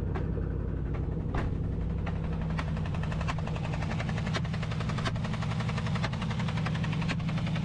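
2015 Chevrolet Camaro engine idling with a loud mechanical ticking: a few separate clacks at first, then a rapid, continuous ticking from about two and a half seconds in. It is the noise of a failed valve roller lifter that has damaged the camshaft.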